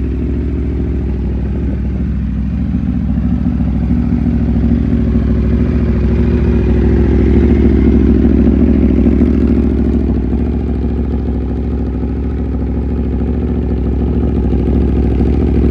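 2018 Aprilia RSV4 RF's V4 engine running, its sound swelling for a few seconds mid-way and then settling back.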